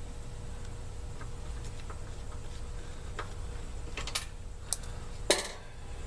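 Faint ticks, then three sharp clicks near the end, the last the loudest with a short rattle after it: small parts being handled in an air conditioner's control panel as the contactor cover comes off. A steady low rumble lies underneath.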